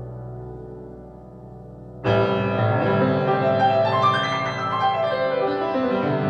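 Music played on a piano-like keyboard: soft sustained notes, then a loud full entry about two seconds in that keeps going with many notes.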